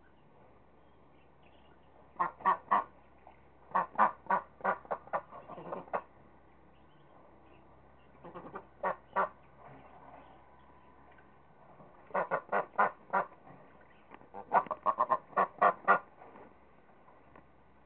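Ducks quacking in runs of quick, loud quacks, five bursts with pauses between them.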